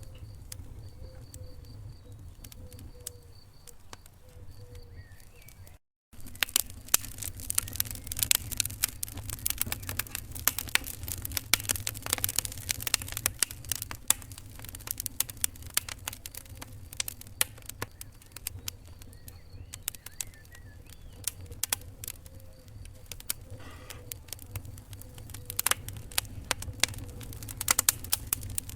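Wood fire crackling in a fireplace: irregular sharp pops and snaps over a steady low rumble. The sound cuts out completely for a split second about six seconds in, and the crackling is busier after that.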